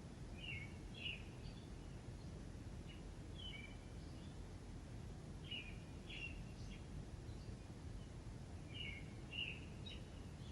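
A songbird singing short phrases of two or three chirpy notes, repeated about every three seconds, over a steady low background rumble.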